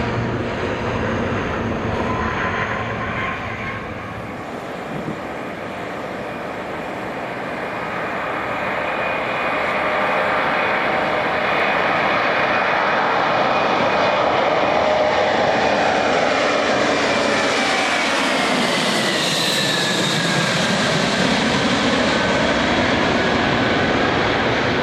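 Airplane engines growing louder as an aircraft passes, their whine sliding down in pitch about three-quarters of the way through.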